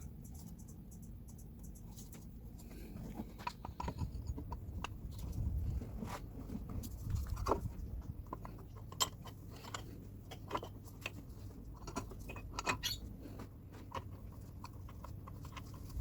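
Irregular clicks, taps and knocks of hand tools and metal parts being handled during a water-pump replacement, over a low steady rumble.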